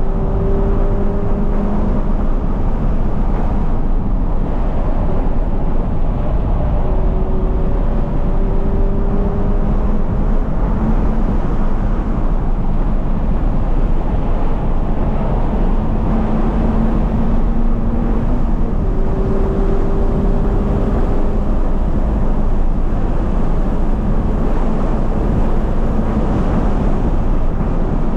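A 2020 Toyota 86's flat-four engine, fitted with a Corsa cat-back exhaust, running hard at lapping pace under a steady roar of wind and road noise. The engine note climbs in long pulls that break off several times.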